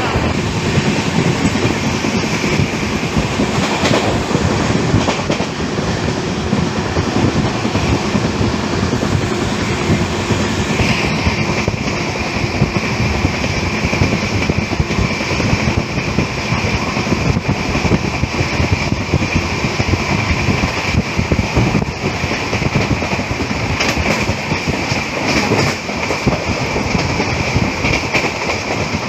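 Express passenger train running at speed, its wheels rumbling and clattering over the rails in a steady din. A thin high-pitched ring rises out of the noise about a third of the way in and holds.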